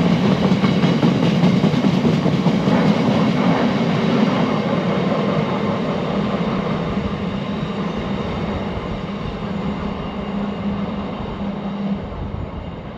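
A train running past on the rails, loud at first and slowly fading as it moves away, with a steady hum under the wheel and rail rumble. The hum stops about a second before the end.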